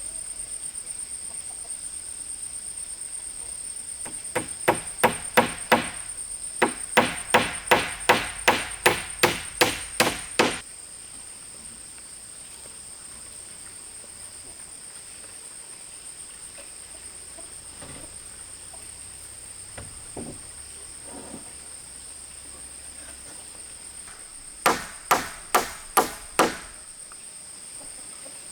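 A tool striking wood in a fast run of about sixteen hard blows, roughly two to three a second, then a pause and a second short run of about five blows near the end. A steady high-pitched drone of insects, likely cicadas or crickets, runs underneath.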